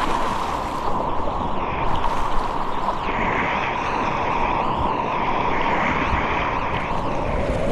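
Whitewater rapids rushing steadily around a kayak, an even noisy roar with no clear breaks.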